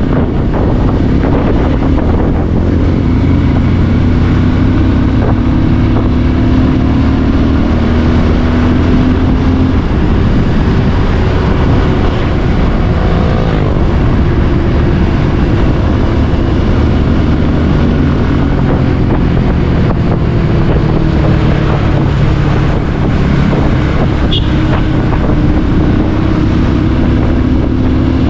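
Bajaj Pulsar 150's single-cylinder engine running at road speed, heard from the rider's seat with wind rushing over the microphone. The engine pitch climbs slowly as the bike picks up speed, falls back about ten seconds in, then climbs again.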